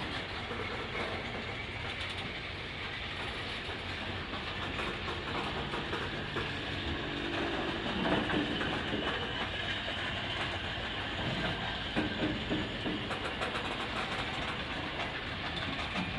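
Freight train of stone hopper wagons rolling past close by: steady rumble of steel wheels with a clickety-clack over the rail joints and occasional louder clanks.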